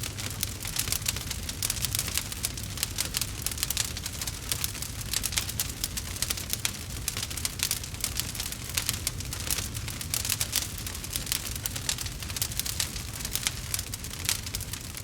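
Wood fire crackling steadily, a dense run of irregular sharp pops and snaps over a low rumble.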